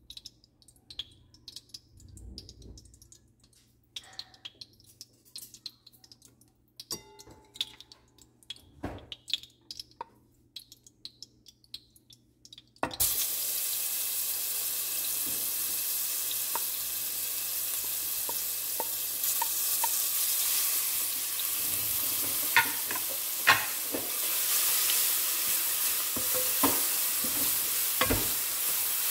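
Light clicks and knocks of utensils, then about halfway through minced garlic and shallots go into hot oil in a pan and a steady sizzle starts abruptly. The aromatics fry on while a wooden spatula stirs them, with a few sharp scrapes and clicks near the end.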